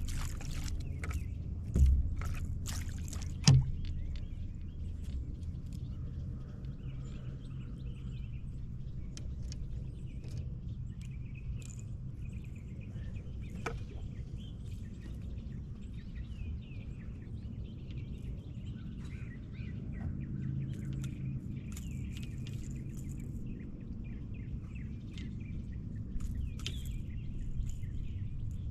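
Birds chirping on and off over a low steady hum, with two sharp knocks near the start.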